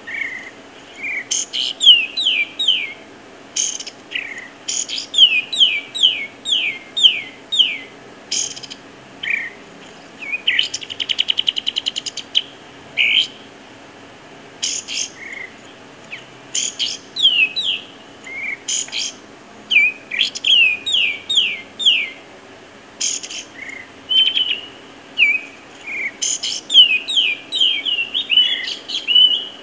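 Birdsong: repeated phrases of several quick falling notes, with single short chirps between them and a fast trill about eleven seconds in.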